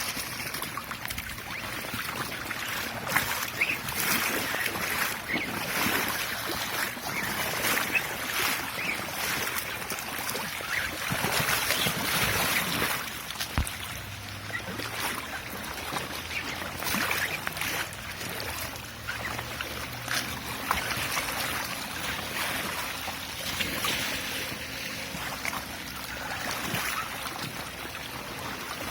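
Floodwater sloshing and trickling, with irregular splashes and a faint steady low hum in the middle.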